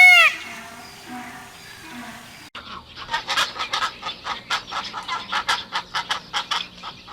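Domestic fowl calling: a rapid, irregular run of short clucking calls starts abruptly about two and a half seconds in and keeps going. It follows the tail of a loud arched call from another bird.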